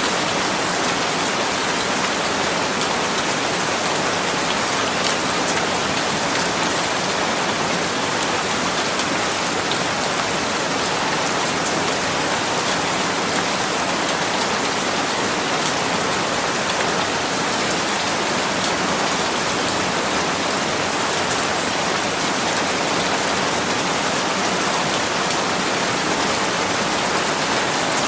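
Steady rain falling and pattering on a surface, an even hiss with fine drop ticks and no thunder.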